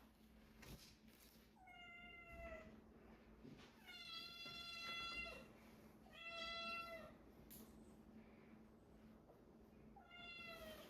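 A cat meowing four times, each meow about a second long and falling a little in pitch toward its end.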